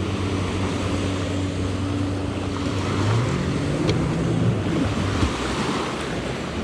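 Jet ski engines running at low speed over the wash of water. About three seconds in, the engine pitches start gliding up and down for a couple of seconds.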